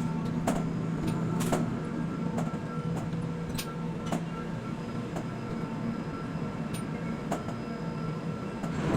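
Container quay crane machinery running with a steady hum, broken by scattered metallic clicks and knocks, the sharpest about a second and a half in and again at the end.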